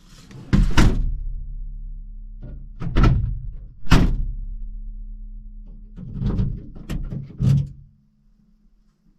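A series of heavy thuds, about six in seven seconds, over a steady low hum; the thuds stop near the end and only a faint hum remains.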